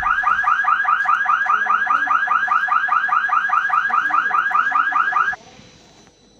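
Electronic car-alarm-style warble from a toy Ferrari's sound effect, a rapidly repeated chirping tone about five times a second that cuts off suddenly about five seconds in.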